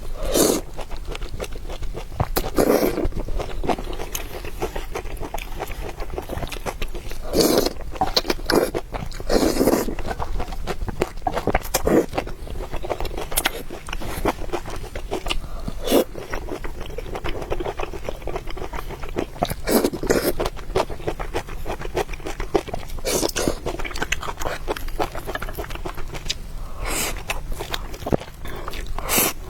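Close-miked eating sounds: chewing and biting with many small wet clicks and smacks, and a louder mouthful every few seconds.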